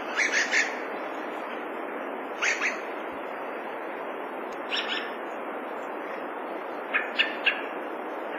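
Dusky thrush calling: four groups of two or three short, sharp notes a couple of seconds apart, over a steady hiss.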